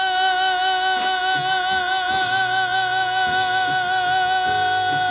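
A singer holding one long note with a slight vibrato, over instrumental accompaniment whose bass notes change underneath it.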